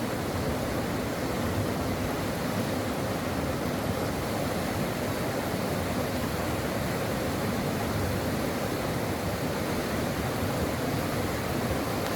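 Stream water rushing and babbling over rocks, a steady, even flow.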